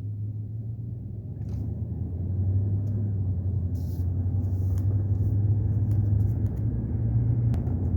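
Steady low rumble of a car driving along a country road, heard from inside, growing a little louder over the first few seconds.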